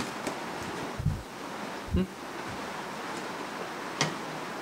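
Soft chewing of a mouthful of kwek-kwek (battered fried quail eggs) over a steady hiss, with two low thumps between one and two seconds in and a sharp click about four seconds in as more pieces are skewered on a bamboo stick.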